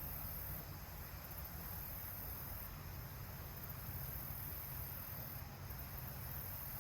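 Steady high-pitched insect chirring, rising and falling in strength every few seconds, over an even hiss of flowing creek water.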